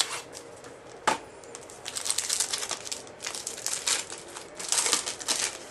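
Trading-card packaging rustling and crinkling as a box of baseball cards is opened and handled, in three spells of rustling, with a sharp click at the start and another about a second in.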